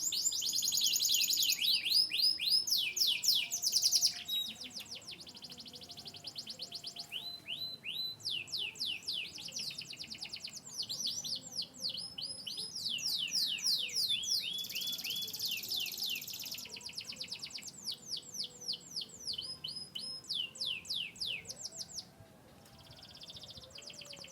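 Domestic canary singing: long rapid trills of repeated high, falling notes, each run of one note type before switching to another. The song turns softer near the end.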